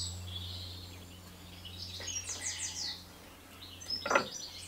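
Small garden birds singing in quick bursts of repeated high chirps, over a steady low hum. A brief noise comes a little after four seconds in.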